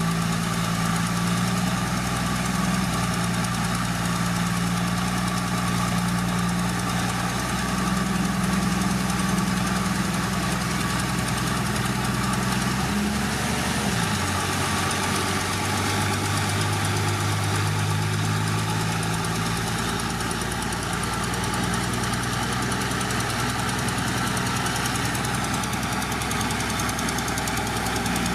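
Heavy diesel engine of earthmoving machinery running steadily under load. Its note shifts about halfway through.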